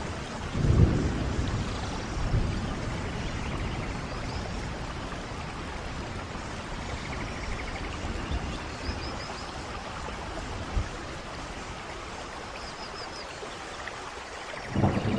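Steady rain falling, with low rumbles of thunder about one and two seconds in and a louder rumble swelling near the end.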